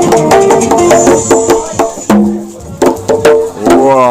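Live acoustic music played by hand: quick, sharp percussive strikes over short, plucked pitched notes.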